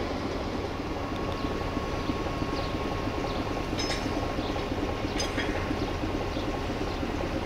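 Steady rumble and hiss of a rail work train of flat wagons, with two short metallic clinks about four and five seconds in.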